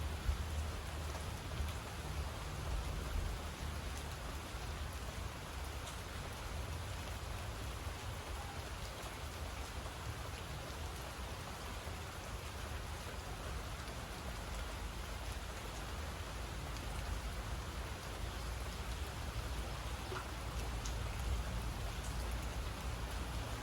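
Steady rain falling and pattering on surfaces, over a constant low rumble.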